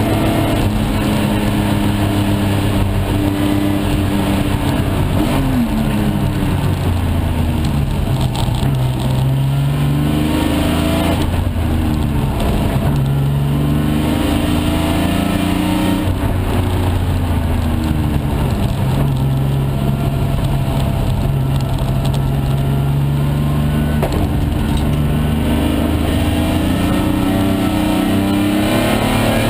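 BMW S50B30 3.0-litre straight-six in an E46 BMW 328, heard from inside the cabin at racing speed. The engine note climbs and falls several times as it is driven hard through the gears and lifted off for corners.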